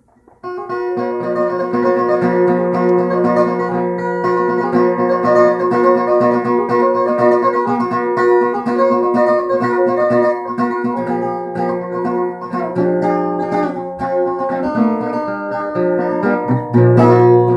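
Solo acoustic guitar playing an instrumental intro: picked melody notes over held bass notes, starting about half a second in, with the bass dropping lower near the end.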